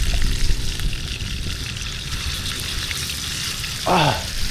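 Filet mignon sizzling in a pan as a steady hiss, with a low rumble underneath. A brief falling vocal sound comes near the end.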